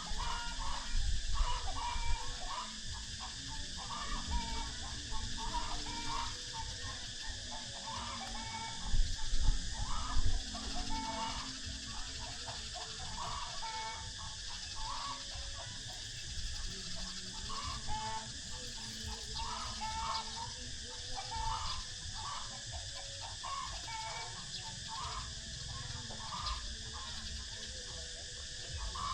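Birds calling in short, repeated notes, about one or two a second, over a steady high hiss and a low rumble.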